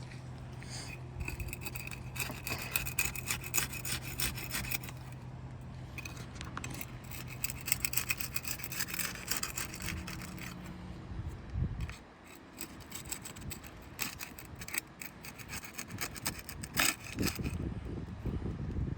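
A hand tool scraping and prying under asphalt roof shingles to break them free of their adhesive seal, in repeated stretches of rasping strokes.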